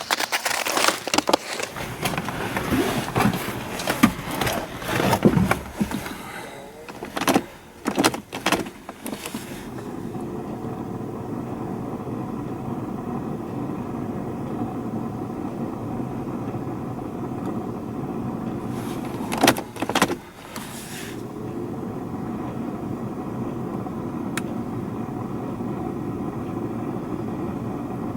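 Old Mercedes-Benz diesel engine on a cold start in deep frost: about ten seconds of irregular knocks and clatter, then the engine settles into a steady idle. Two sharp hits come about twenty seconds in.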